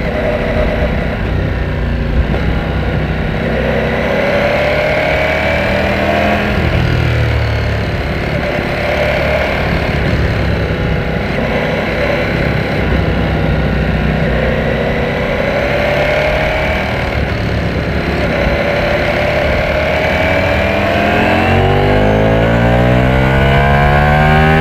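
Ducati Panigale V4S's V4 engine pulling under way, its pitch rising and falling with the throttle every few seconds. About three-quarters of the way through it opens up hard into a long, steep rising rev that grows louder to the end.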